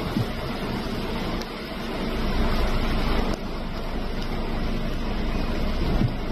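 Steady rushing roar of a storm flood: heavy rain and running water, with wind rumbling on the microphone. The sound changes abruptly about halfway through.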